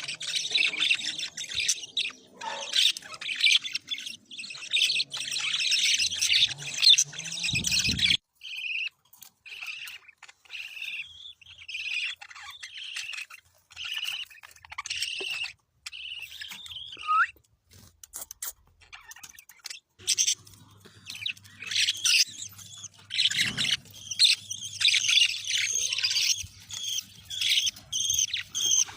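Young green budgerigars chirping and chattering: a dense run of quick high chirps that thins out to scattered calls for several seconds in the middle, then picks up again.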